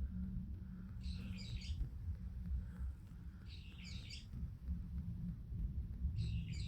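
A songbird sings the same short chirping phrase three times, about every two and a half seconds, over a steady low rumble.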